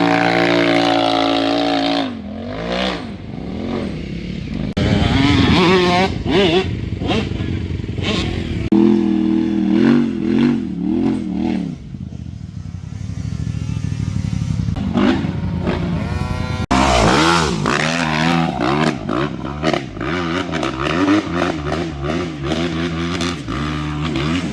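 Dirt bike engine being ridden, revving up and down again and again as the throttle is worked. The sound changes abruptly about two-thirds of the way through, then carries on with quicker changes in revs.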